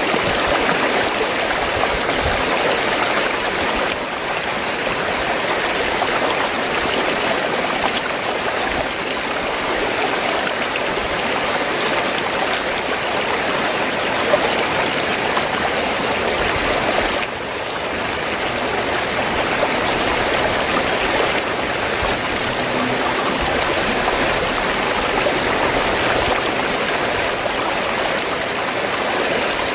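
Fast-flowing stream water gurgling and rushing steadily, with a brief drop in level about 17 seconds in.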